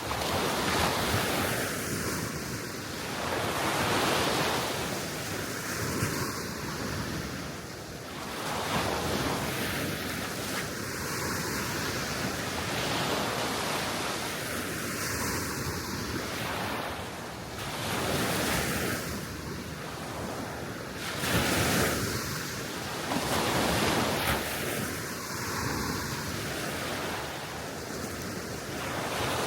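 Small waves washing onto the Baltic Sea shore, surging and receding every few seconds, with wind buffeting the microphone.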